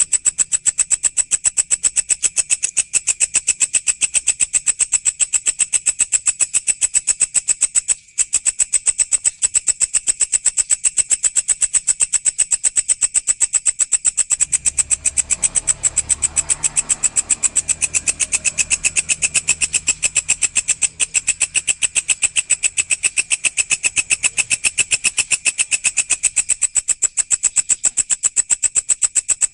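A walang, an Indonesian singing orthopteran insect, calling with a fast, even, high-pitched pulsing trill that breaks off briefly about eight seconds in.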